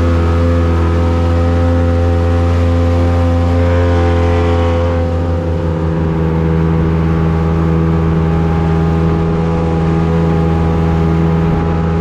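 A boat's engine running steadily under way, a constant drone whose note changes slightly about five seconds in.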